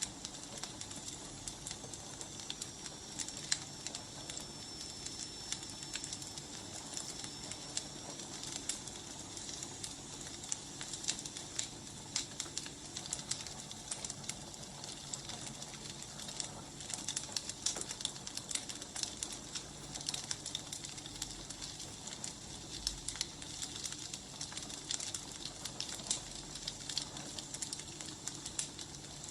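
Wood fire burning, with irregular sharp crackles and pops over a steady hiss. A faint high whistle is heard for a few seconds near the start.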